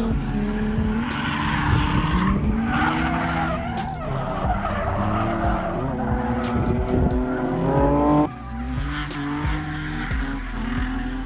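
A drift car's engine revs up and down while its tires squeal and skid through a slide. The engine note drops off suddenly about eight seconds in.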